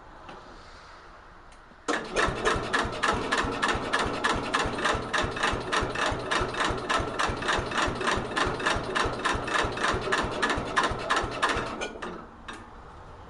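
Electric starter cranking the cold engine of a 1964 Cub Cadet 70 garden tractor without it catching: an even, rapid chugging of about four to five beats a second. It starts about two seconds in and stops suddenly near the end. This is a cold start in about 10-degree cold with the choke closed.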